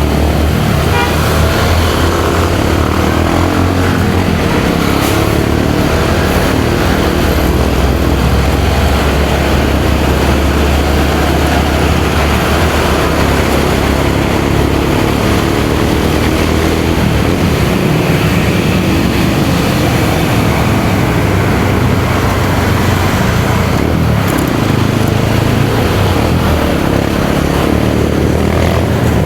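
Motorcycle engine running while riding along, its pitch shifting gently, mixed with wind noise and surrounding road traffic.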